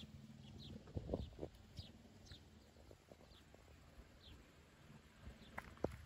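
Faint, short downward-sliding chirps of small birds, repeated every half second or so. A few low thumps come about a second in and again near the end.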